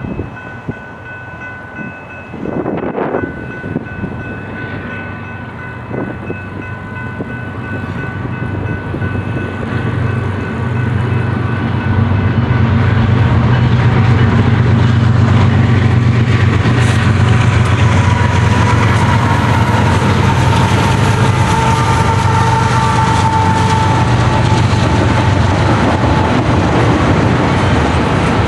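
Grade-crossing bell ringing as a train approaches, then the train's rumble and the clatter of wheels on rail build up over about ten seconds and carry on loud and steady as the train passes.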